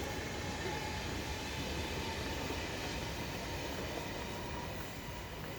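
GoldenPass Express train running on the rails, a steady rumble with faint steady whining tones above it, easing slightly near the end.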